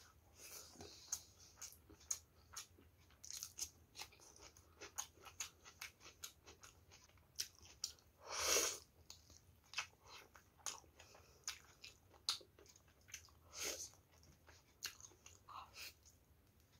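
A person chewing a mouthful of rice and chicken, with many short mouth clicks. About halfway through there is one louder, longer sound as she bites into a saucy chicken drumstick.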